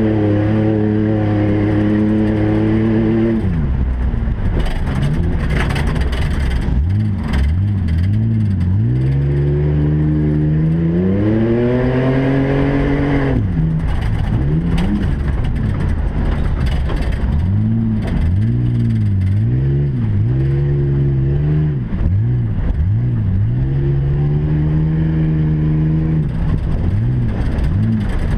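Race truck engines revving up and backing off over and over: one long climb in pitch about nine to thirteen seconds in that drops away sharply, then shorter rises and falls every second or two.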